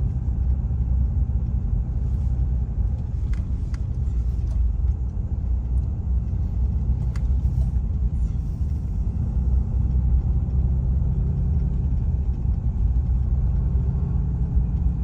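Steady low rumble of road and engine noise inside a moving car's cabin, with a couple of faint clicks.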